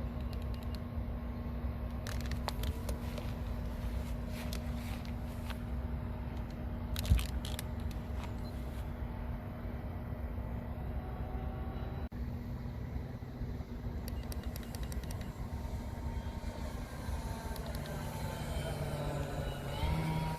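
Electric motor and propeller of a large SIG Rascal RC airplane running steadily under heavy wind rumble on the microphone, with scattered clicks and one sharp knock about seven seconds in. Near the end its pitch bends as it passes by.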